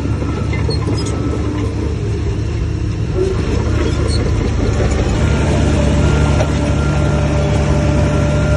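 Heavy construction machine's diesel engine running steadily, a little louder from about five seconds in.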